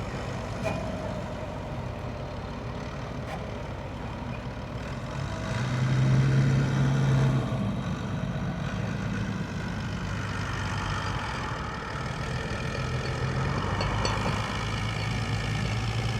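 Tractor engine running steadily as it pulls a plough across the field. It grows louder for a couple of seconds about six seconds in, then settles back to a steady run.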